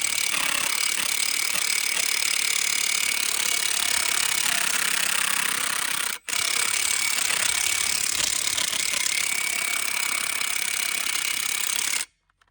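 Milwaukee half-inch cordless impact wrench with a 33 mm socket, running in reverse and hammering on a rusty semi-truck lug nut to loosen it. It hammers steadily, stops for an instant about six seconds in, hammers again, and cuts off abruptly near the end.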